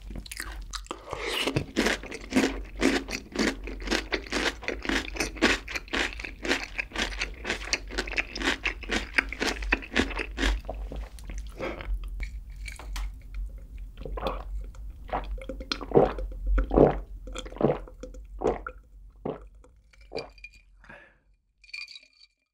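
Close-up chewing of crisp pickled radish cubes, a dense run of crunches for about the first ten seconds. After that come fewer, spaced-out sounds of a drink being gulped from a glass jar.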